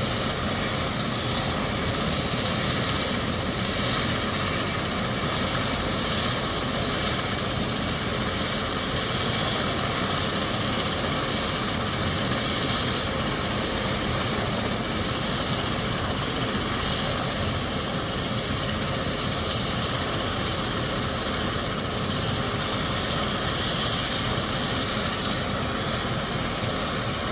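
Medical helicopter running on a hospital rooftop helipad: a steady rush of turbine and rotor noise with a thin high whine.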